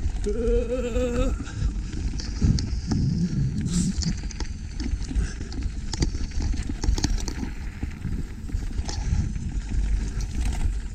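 Wind buffeting the microphone with a constant rumble, over a quick run of rattles and knocks, with a brief pitched squeal in the first second.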